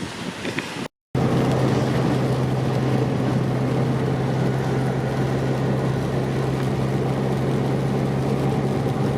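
Steady engine and road drone inside a moving 1968 Morris Minor, with a strong, even low hum. It begins after a brief break about a second in.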